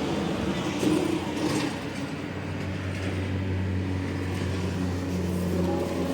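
2007 Chrysler Sebring's 2.0-litre Volkswagen TDI four-cylinder diesel engine running with a steady low hum, with a few short rattles about a second in.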